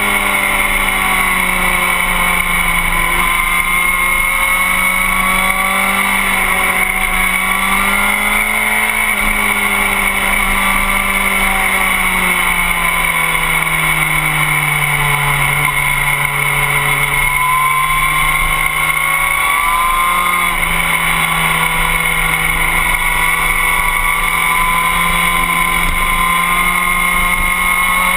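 Sport motorcycle's engine running hard on track, heard from the bike itself; its pitch holds, drops slowly about halfway through and climbs again a few seconds later, as the throttle is eased and reopened.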